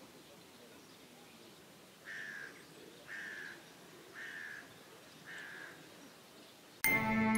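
A bird calling four times, about a second apart, each call short and held at one pitch, over a faint outdoor hiss. Instrumental music starts abruptly near the end.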